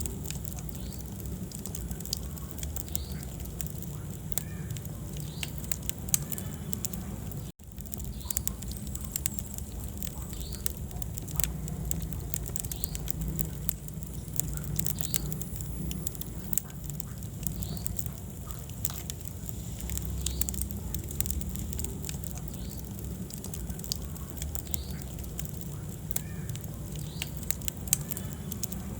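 Wood fire burning in a fireplace: a steady low rumble of flames with frequent sharp crackles and pops. The sound cuts out for a split second about seven and a half seconds in.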